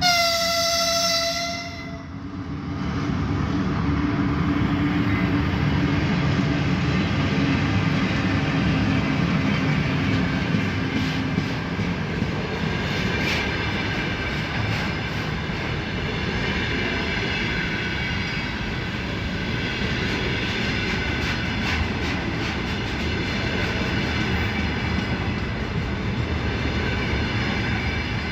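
A 2ES6 electric freight locomotive gives one short horn blast, then the freight train rolls past with a steady rumble of wheels on rail. From about twelve seconds in, high ringing tones sound over the rumble.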